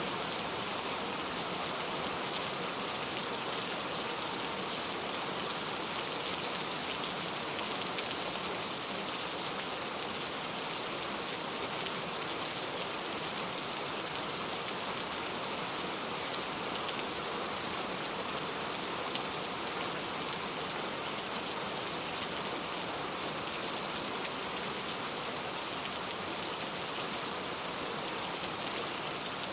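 Steady rain falling, an even hiss with many small drop sounds and no let-up.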